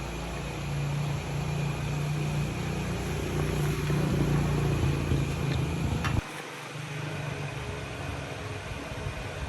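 A motor running with a steady low hum, growing a little louder, then cutting off abruptly about six seconds in, after which a lighter mechanical hum remains.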